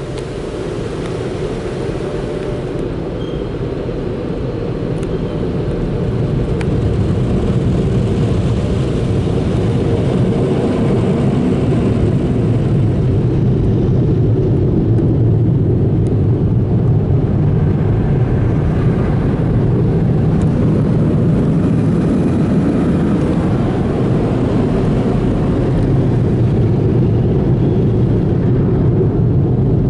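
Car wash tunnel dryer blowers blasting air over the car. A loud, steady rushing noise that builds over the first several seconds, then holds.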